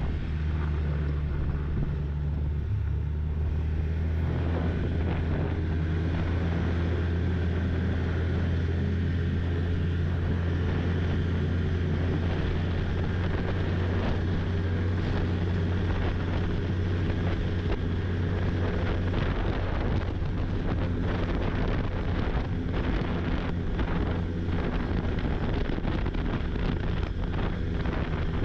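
Snowmobile engine running steadily while riding, with wind noise over the microphone and a rough, rattling ride.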